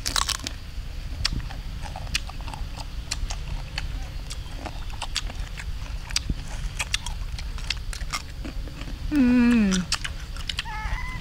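Biting and chewing crunchy sour fruit: a run of irregular crisp crunches and mouth clicks. About nine seconds in comes one short, loud vocal sound that falls in pitch, with a fainter pitched sound just before the end.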